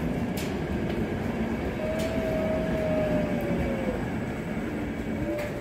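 ZSSK express passenger coaches rolling past close by, a steady rumble of wheels on the track. A long faint whine rises above it about two seconds in, and a shorter one comes near the end.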